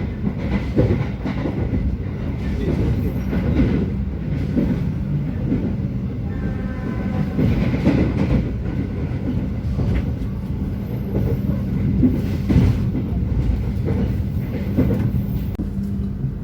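Turangga passenger train running on the rails: a steady low rumble with irregular clatter of the wheels over rail joints. A brief higher tone sounds about six seconds in.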